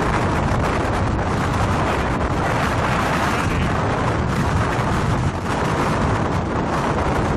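Strong tornado-driven wind buffeting the microphone: a loud, steady rush of noise.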